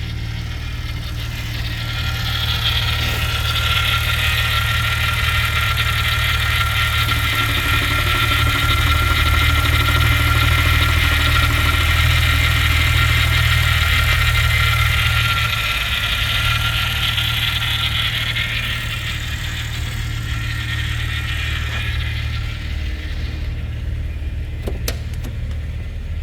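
Maserati Ghibli S 3.0 twin-turbo V6 petrol engine running steadily on test, with a low, even rumble. A high hiss with a whine grows louder a couple of seconds in and fades away over the last third. A few sharp clicks come near the end.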